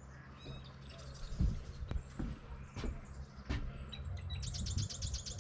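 Small songbirds chirping, with a fast, high trill near the end. A few soft thuds fall in the middle, likely footsteps on the path.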